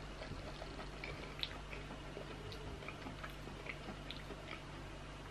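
Quiet chewing with the mouth closed: a dozen or so faint, scattered wet mouth clicks, over a steady low hum.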